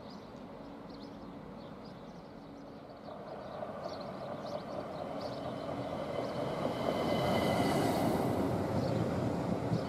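ÖBB Cityjet electric multiple unit rolling in along the platform, growing steadily louder as it comes close and passes, with light clicks from the wheels on the rails and a faint high whine near the end.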